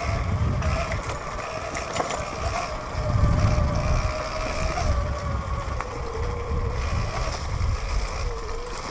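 Sur-Ron electric dirt bike riding along a dirt trail: a steady motor whine that drops in pitch twice as the bike slows, over a constant low rumble, with a single sharp click about six seconds in.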